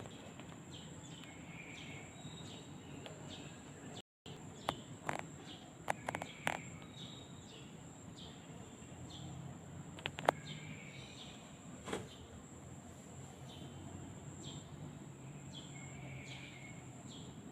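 Birds chirping in short, repeated calls over a steady high-pitched insect drone and a low hum. There are a few sharp clicks about five to six seconds in and again around ten seconds in, and the sound cuts out briefly about four seconds in.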